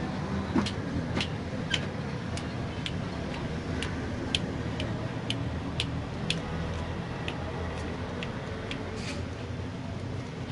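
A regular run of sharp ticks, about two a second, that stops a little before the end, over a steady low hum.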